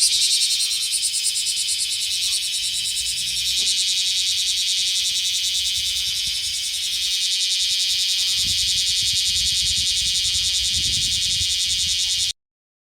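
Cicadas singing: a loud, steady high-pitched buzzing drone that cuts off suddenly near the end, with a low rumble underneath for a few seconds before that.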